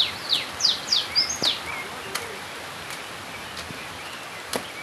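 A bird calling: a quick series of short, descending whistled notes in the first second and a half, over a steady hiss of rain. A few sharp clicks stand out later on.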